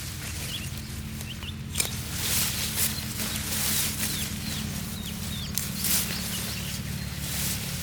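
Birds chirping: a scatter of short, high, falling peeps over a steady low hum, with several brief bursts of rustling.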